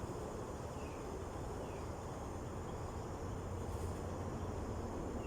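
Steady rumble of distant highway traffic, with a faint insect drone above it and a couple of short falling chirps about one and two seconds in.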